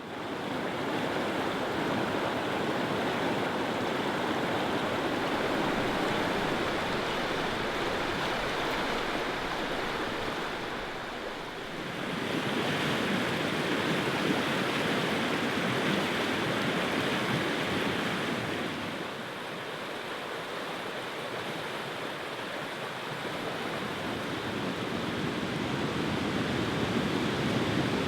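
Rushing river water: a steady wash of noise that shifts in tone about twelve seconds in and again about seven seconds later.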